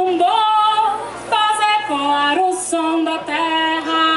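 A woman singing a maracatu toada unaccompanied, in long held notes that step between a few pitches, with no drums.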